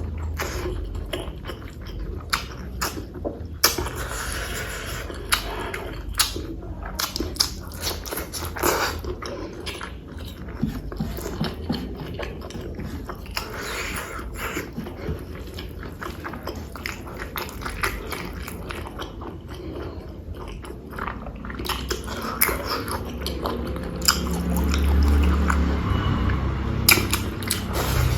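A person chewing and biting a mouthful of spicy pork curry and rice close to the microphone, with many short, irregular clicks from the mouth.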